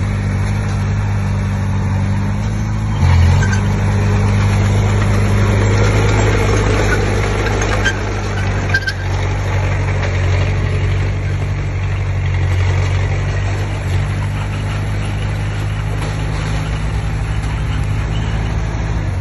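Diesel engine of a Komatsu D20P bulldozer running steadily as the machine works, with a short rise in level about three seconds in and a couple of brief knocks around eight to nine seconds in.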